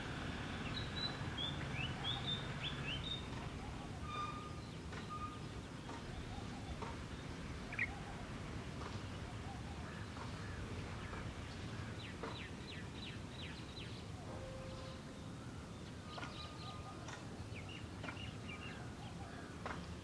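Wild birds chirping and calling: scattered short, high chirps, a run of quick rapid chirps about twelve seconds in, and a few brief whistled notes, over a steady low background rumble.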